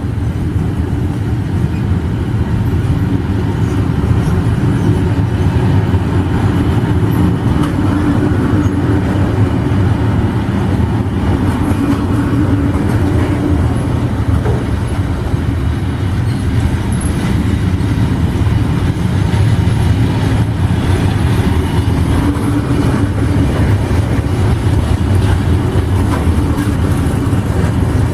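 A train running, a steady low rumble that holds evenly throughout.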